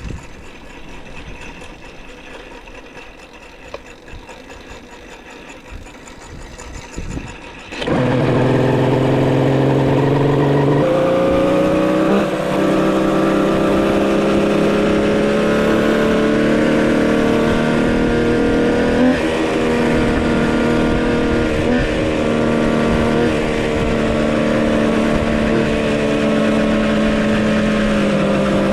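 A fast, even mechanical ticking gives way about eight seconds in to a homemade three-cylinder two-stroke engine, which comes in suddenly and loud. The engine then runs steadily at cruising speed, its pitch shifting once shortly after.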